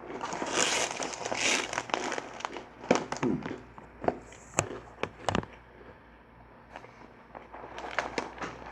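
Snack bag crinkling for about two seconds, then a run of sharp crackles and clicks.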